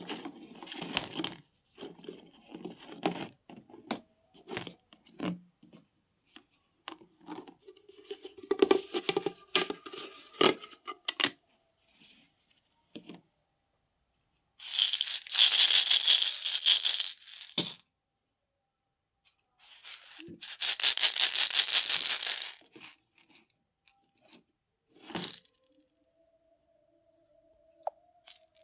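Plastic pop tube fidget toys being stretched and squashed: scattered crackles and clicks, then two long stretches of rapid ratcheting clicking from the ribbed tubes about halfway through.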